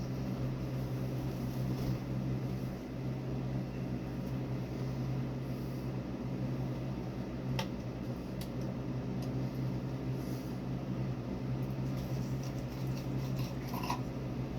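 Steady low mechanical hum, with a single sharp click about halfway through.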